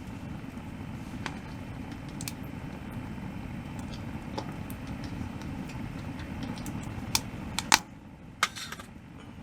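Scattered clicks and taps of utensils and dishes during a meal, over a steady low rumble. A few sharper clicks come near the end, and the rumble then falls away.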